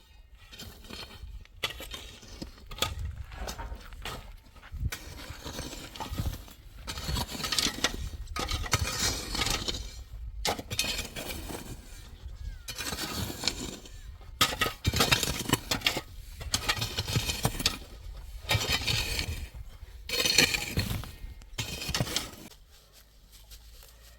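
Repeated bursts of scraping and crunching on hard material, each about a second long with short pauses between, stopping about two seconds before the end.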